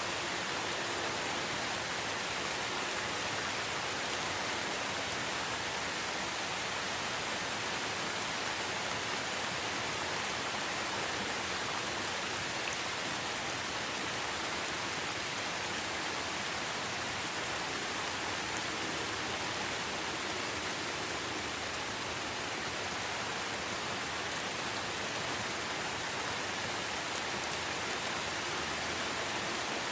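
Steady rainforest rain falling, an even unbroken hiss with no single drops, calls or other events standing out.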